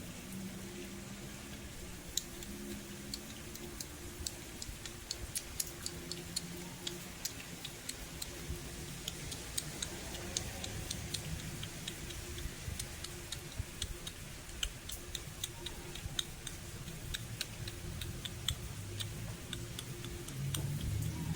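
Rain falling, with irregular sharp ticks of drops striking a hard surface close by, over a low steady hum.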